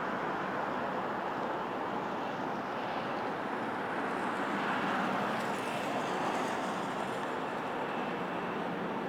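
Jet aircraft engines running: a steady rushing noise with a faint high whine coming in about halfway through.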